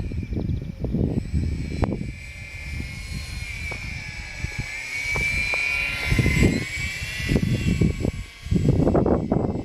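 Radio-controlled model plane's motor and propeller whining overhead, the pitch rising to a peak about halfway through and easing back down. Strong wind buffets the microphone the whole time.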